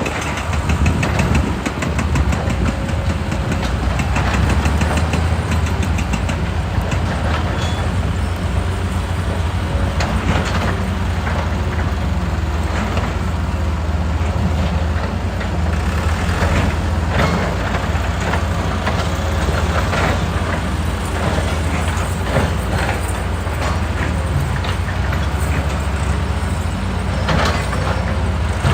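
Diesel engine of a hydraulic excavator running steadily under load, with irregular knocks and clatter of rock and steel scattered throughout.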